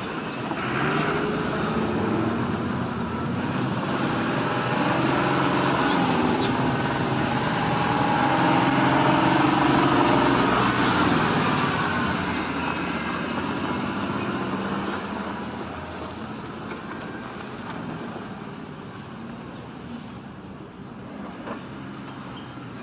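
Heavy truck engine running under load, its pitch rising and falling as it revs. It grows louder toward the middle, then slowly fades away.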